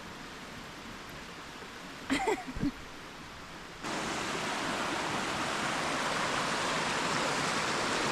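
Steady rush of flowing creek water, stepping up suddenly to a louder, fuller rush about four seconds in.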